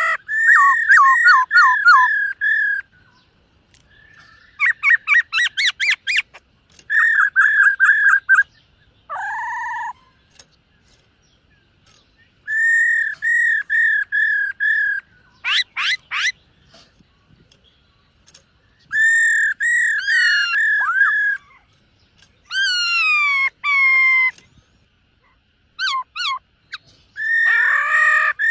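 Black-throated laughingthrush singing: phrases of loud, clear whistled notes, each a quick series of five to seven repeated notes, separated by pauses of about a second or two, with a few rapid sweeping runs and downward-slurred notes between them.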